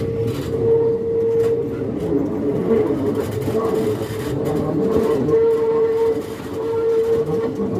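Passenger train coaches running along the track, heard through an open coach window: a steady rumble and rattle with a humming tone that comes and goes, and an occasional click from the rails.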